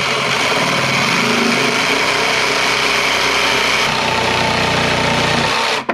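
Electric jigsaw running and cutting through a 2-by-10 wooden board: a loud, steady motor whine with the rasp of the blade, starting abruptly and cutting off just before the end.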